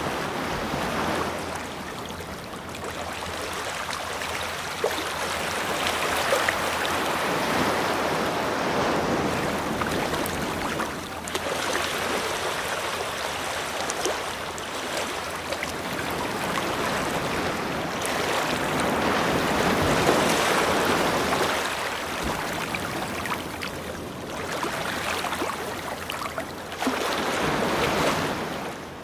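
Ocean waves breaking and washing on a beach, a steady rush of surf that swells and eases every few seconds.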